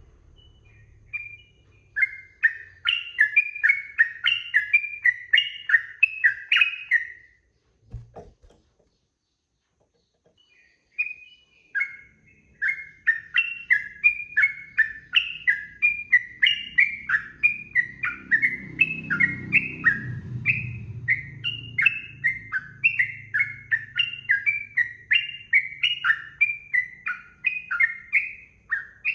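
Yellow-vented bulbul (trucukan) singing a fast, unbroken run of short chirping notes, about three a second. The song breaks off for a few seconds, with a brief low thump in the gap, then picks up again.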